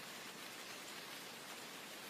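Steady rain falling: an even, soft hiss that sits mostly in the higher pitches.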